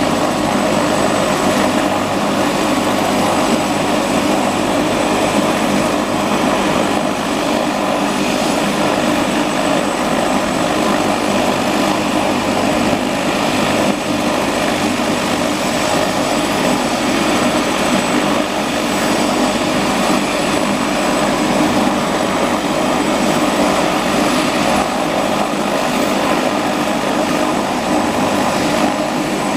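Helicopter's turbine engine and rotor running steadily after start-up, a constant high whine over the even rotor noise.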